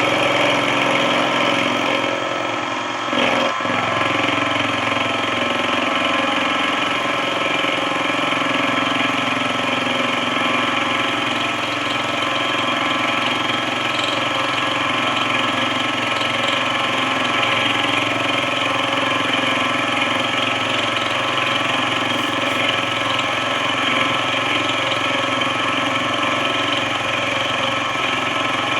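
Benchtop machine tool running steadily, with a brief dip and a knock about three seconds in.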